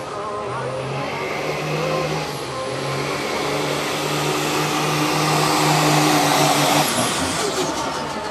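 Pickup truck engine running hard under full throttle while pulling a weight-transfer sled, with a high turbo-like whine above the engine note. It grows louder, then drops off about seven seconds in as the throttle comes off at the end of the pull.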